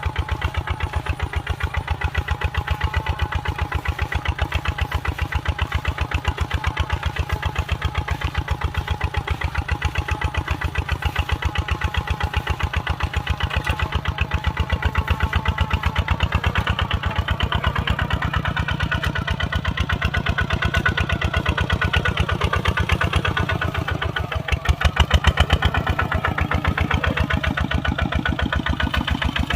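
Kubota RT140 single-cylinder diesel engine running steadily with a rapid, even chugging beat. It grows louder for about a second about 25 seconds in.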